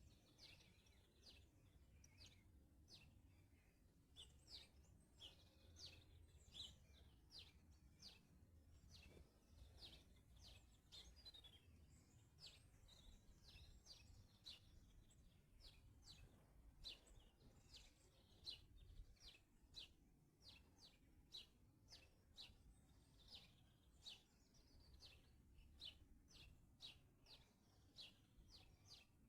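Garden birds singing: faint, short, high chirps and song phrases repeated a few times a second, over a low steady background rumble.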